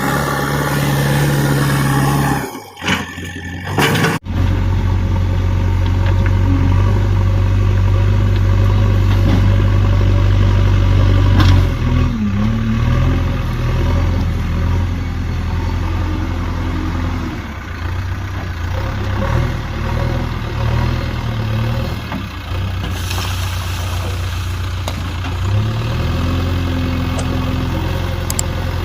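JCB backhoe loader's diesel engine running steadily, its speed dipping and picking up a few times as the load changes. There are two brief breaks in the sound in the first few seconds.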